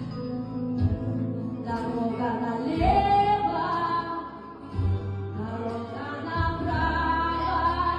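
A song: a voice singing sustained, gliding notes over backing music with a deep bass.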